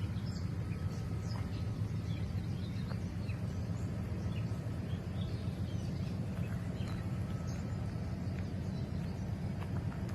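Outdoor ambience: a steady low rumble with scattered faint bird chirps over it.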